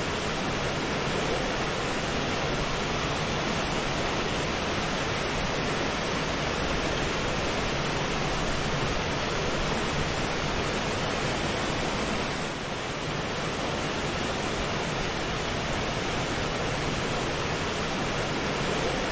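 Steady rushing water: an even, continuous hiss with no distinct splashes or tones, dipping briefly about twelve and a half seconds in.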